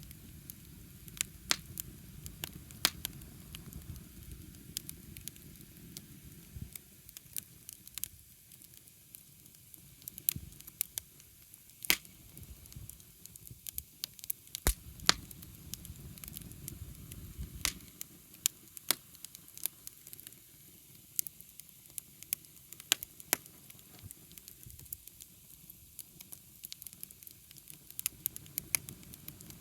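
Wood campfire crackling, with scattered sharp pops throughout over a low, uneven rumble that comes and goes.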